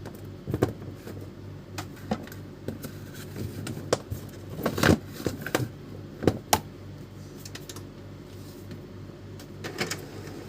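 Epson L310 inkjet printer's print head carriage and paper roller moving through a power-on test, a steady low hum with irregular clicks and knocks, the loudest about five and six and a half seconds in. The head still moving is taken as a sign that the fault is not in the printer's program.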